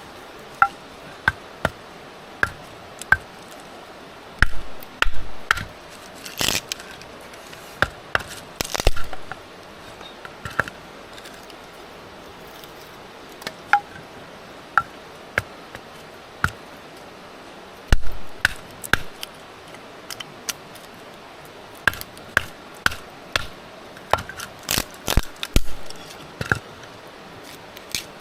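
Chopping: a long run of irregular sharp knocks of a blade striking, a few landing with a heavier dull thud.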